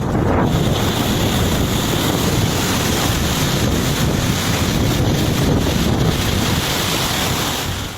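Strong storm wind blowing hard on the microphone: a loud, steady rush, heaviest in the low rumble.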